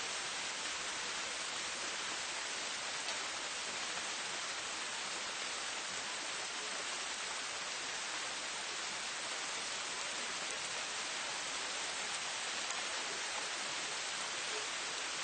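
Steady rain falling in a city, an even hiss with a few faint drop ticks.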